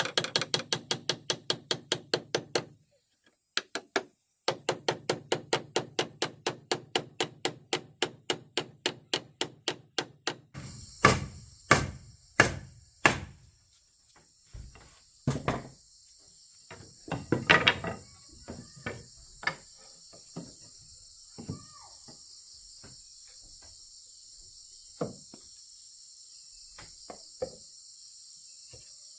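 Hammer blows on wood in a fast, even rhythm of about four a second, with a short break, then slower, irregular knocks that thin out. Insects chirp steadily and high-pitched underneath.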